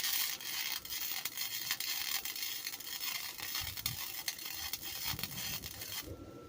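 Wire-feed welder running a bead on a steel exhaust pipe: a steady crackling sizzle with many sharp pops, which stops abruptly about six seconds in.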